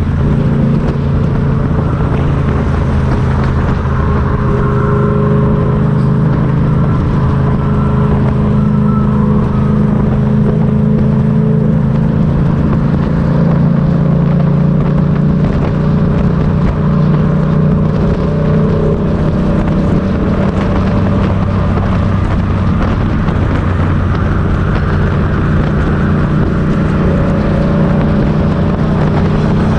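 Motorcycle engine running at steady revs, a constant low drone with only small shifts in pitch.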